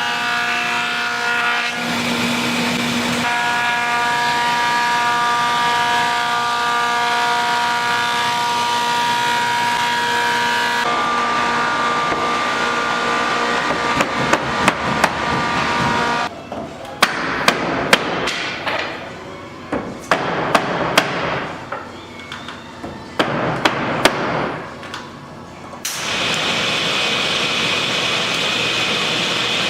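Held chords of background music. From about halfway, a run of sharp hammer blows on wood as wooden siding boards are nailed on.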